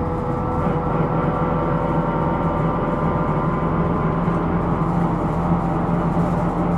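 Hino Rainbow II (SDG-KR290J1) non-step bus running, heard from inside the cabin: a steady drone of engine and drivetrain with several held whining tones, the bus's abnormal noise. The low hum firms up a couple of seconds in.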